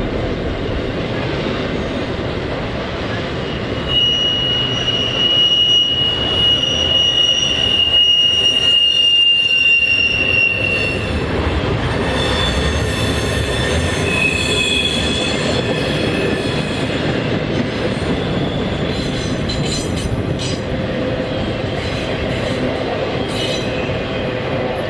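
CSX intermodal freight train cars rolling past with a steady rumble. From about four seconds in, a thin, high wheel squeal holds for some seven seconds, and shorter squeals follow. Sharp clicks from wheels crossing rail joints come near the end.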